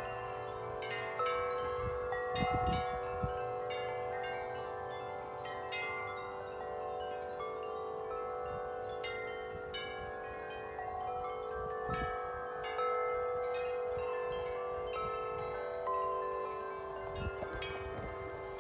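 Wind chimes ringing continuously in gusty wind, struck again and again so that many long tones overlap. A few low thumps come in around the louder moments.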